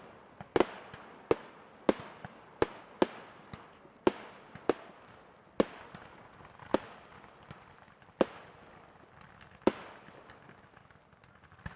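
Fireworks display of 4-inch aerial shells: a series of sharp bangs, each trailing a short echo, coming irregularly every half second to second and a half and thinning out near the end.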